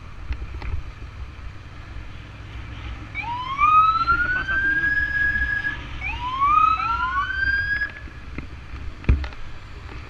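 Ambulance motorcycle siren sounding two rising wails, each about two seconds long, over a low rumble. A single sharp knock comes near the end.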